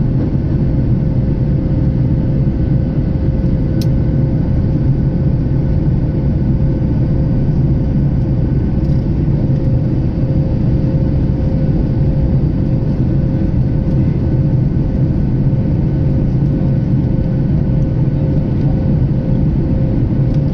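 Boeing 737 jet engines droning steadily: a deep, even rumble with a faint steady hum above it.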